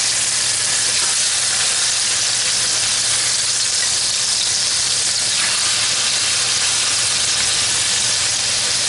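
Boneless chicken thighs sizzling steadily as they brown in hot bacon fat in a pan.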